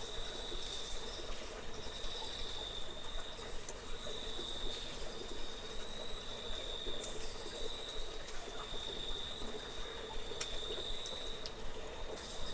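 Cricket chirping in short high trills, repeated about every second and a quarter, over a steady hiss with a few faint clicks.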